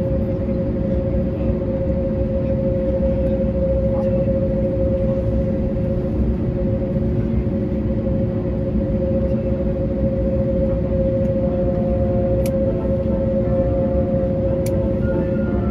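Steady cabin noise inside an Airbus A321neo: a low rumble with a constant hum from its Pratt & Whitney geared turbofan engines, and a couple of faint clicks.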